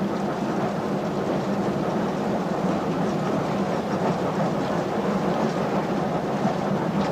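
SPS class 4-4-0 steam locomotive running along at speed, heard from its footplate: a steady, dense running noise of the engine and the wheels on the rails.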